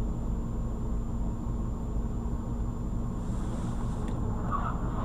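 Steady low rumble of a car heard from inside the cabin through a dashcam microphone, with a faint constant hum.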